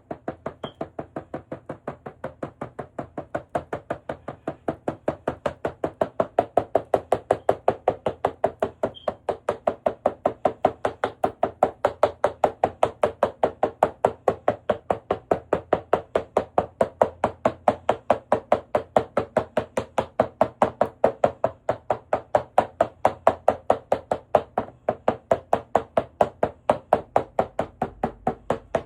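A long run of rapid, evenly spaced hard knocks, several a second, getting louder over the first few seconds and then holding steady.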